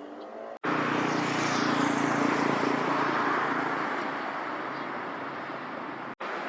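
Engine noise of a passing vehicle: loud, even noise with a low hum, starting abruptly at a cut, loudest about two seconds in and slowly fading.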